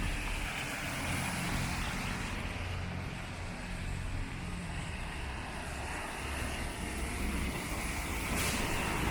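Rainy city street: a steady hiss of rain and of tyres on wet pavement over the low rumble of passing traffic, getting a little louder near the end.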